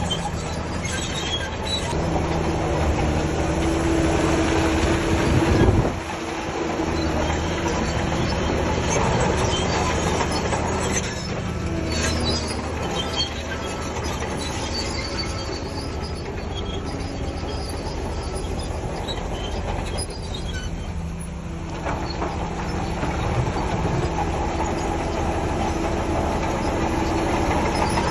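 Heavy diesel earthmoving machine running steadily under load, with a metallic rattle over the engine drone. A steady higher-pitched tone rises from about two seconds in and stops abruptly about six seconds in.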